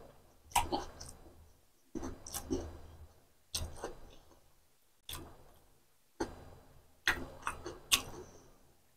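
Close-up eating sounds: a person chewing boiled egg in spicy masala gravy, with sharp, wet mouth clicks and smacks at irregular intervals, roughly one a second.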